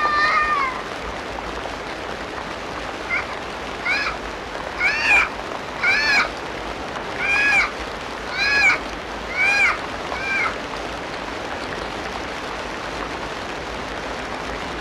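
Rainforest ambience: a steady hiss of background noise with a repeated animal call over it. The call rises and falls in pitch, comes about eight times roughly once a second, and stops a little past the middle.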